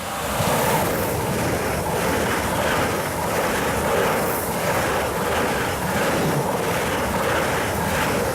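A train passing close by at speed: a loud rush of wheel and rail noise with a repeating clatter of wheels over the track, about two a second.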